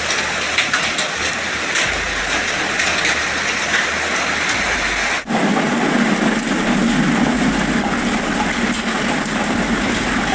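Heavy storm rain pelting down in a dense, steady hiss, in two clips joined by an abrupt cut about five seconds in.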